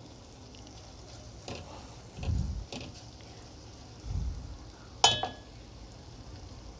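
Spiced tomato masala sizzling in hot oil in a steel pot while a spatula stirs it. Two dull knocks come from the spatula against the pot, and a sharp ringing metallic clink follows about five seconds in.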